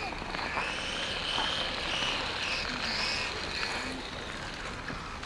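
1/10-scale HSP radio-controlled monster truck running, a high-pitched whine that rises and falls with the throttle.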